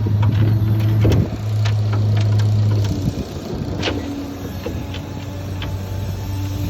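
A Ford bucket truck's PTO-driven hydraulic boom system runs under load with a steady low drone. The drone cuts out briefly about a second in, then drops away from about three seconds until near the end. Scattered clicks and knocks come from the boom and its controls.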